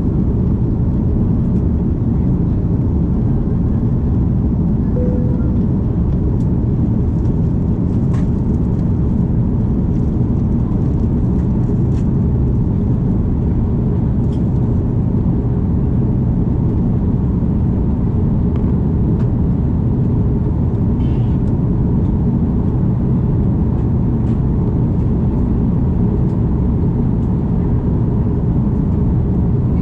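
Steady low roar of an Airbus A330's cabin in flight: engine and airflow noise holding even throughout, with a few faint clicks.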